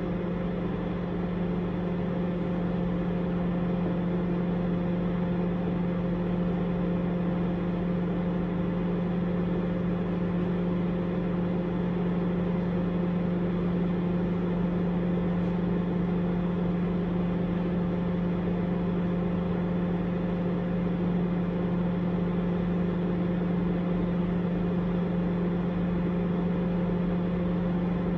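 Microwave oven running with a steady, unchanging hum.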